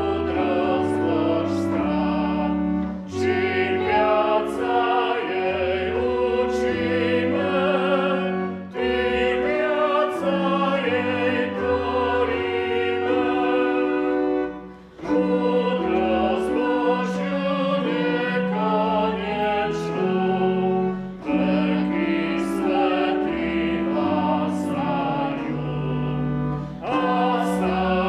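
Hymn sung to organ accompaniment: sustained organ chords under a singing voice with vibrato, moving phrase by phrase with short breaths between lines about every six seconds.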